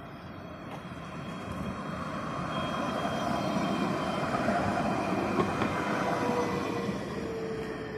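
A tram passing on its rails, its electric drive giving a whine of several steady tones over the rumble of the wheels; it grows louder for a few seconds, peaks about midway, then fades as the pitch of the main tone drops slightly near the end.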